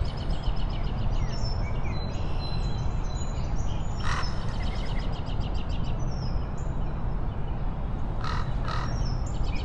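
Birds chirping and trilling in rapid repeated notes over a steady low rumble, with a harsh caw-like call about four seconds in and two more about eight seconds in.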